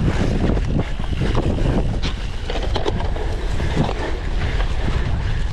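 Wind rushing over the microphone of a camera riding along on a cyclocross bike at race speed, with scattered clicks and rattles from the bike over rough ground.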